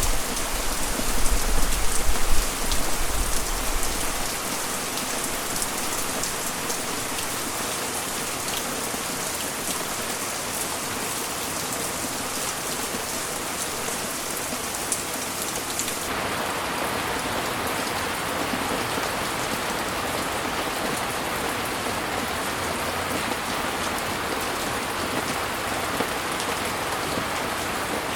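Heavy rain falling steadily: a dense hiss with fine pattering drop ticks. A low rumble sits under it for the first few seconds, and the hiss changes tone about halfway through.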